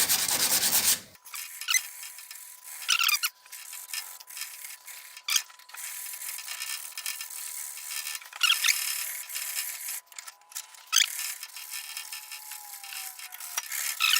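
Hand sanding of a forged steel spatula with wet-and-dry abrasive paper: fast, even back-and-forth strokes for about the first second, then quieter, uneven rubbing and scratching with a few louder squeaky strokes.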